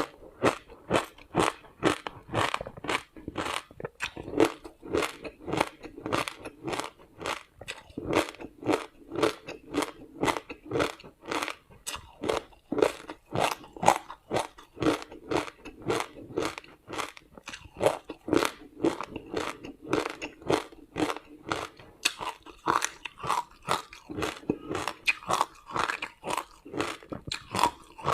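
A person chewing hard frozen ice made with passion fruit and sesame seeds. It is a steady run of crisp crunches, about two to three bites a second.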